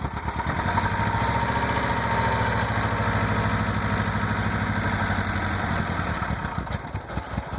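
1996 Saturn SC2's 1.9-litre four-cylinder engine running with a rapid rhythmic knock, which the owner guesses is a spun rod bearing. Near the end it falters and runs unevenly.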